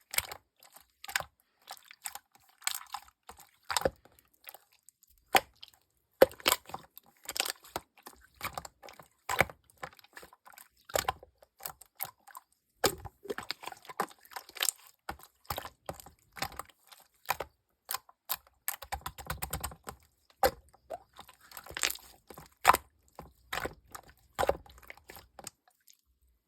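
Jelly-textured slime being squished and poked by hand, giving many irregular sharp clicks and short squelching pops.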